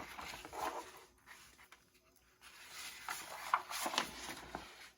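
Paper rustling and light handling sounds as the kit's instruction booklet is leafed through, in short irregular bursts with a quiet pause about a second in.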